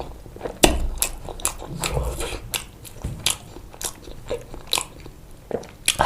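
Close-miked eating of pizza: crisp crust crunching and wet chewing and mouth sounds, with a quick series of sharp crackling clicks, several a second.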